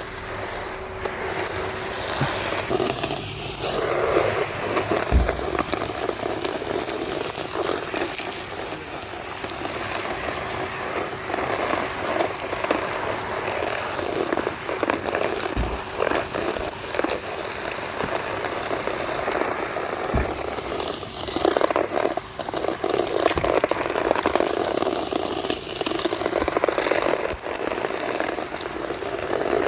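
2007 Numatic Henry HVR200-22 tub vacuum cleaner running steadily while sucking up street grit and debris, a dense crackling through the hose, with a few dull knocks.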